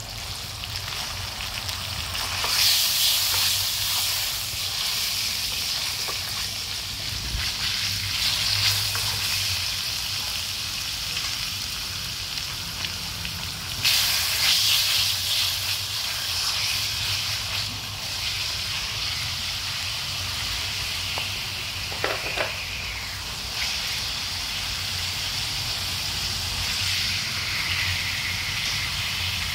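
Lemongrass-marinated pork chops sizzling as they fry in shallow oil in a steel pan, a steady crackling hiss. It flares louder twice, a couple of seconds in and again about halfway through as the pieces are moved with chopsticks. There is a brief tap later on.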